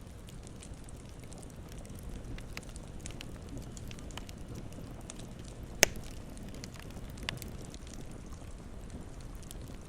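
Campfire crackling, with scattered small snaps over a steady low rumble. One loud, sharp pop comes a little past halfway, and a smaller one follows about a second and a half later.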